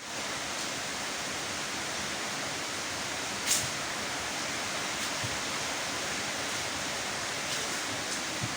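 Steady rain falling, an even hiss of rainfall, with one sharp tap, such as a drop striking something close by, about three and a half seconds in.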